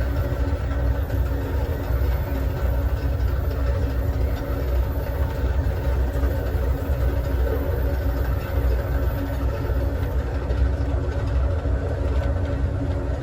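Steady low rumble of a moving passenger train car riding the rails, with a steady hum over it.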